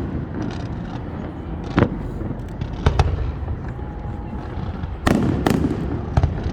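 Fireworks going off: about six sharp bangs at irregular intervals, two of them close together about three seconds in, over a steady low rumble.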